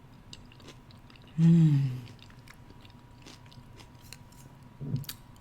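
Close-miked chewing of a mouthful of food, with small wet clicks and smacks of the mouth. About a second and a half in comes a loud hummed "mmm" of enjoyment that falls in pitch, and a shorter murmur follows near the end.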